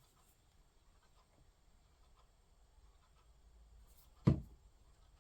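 Faint rustling and light ticks of paper craft pieces being handled on a table, with one short dull thump a little over four seconds in.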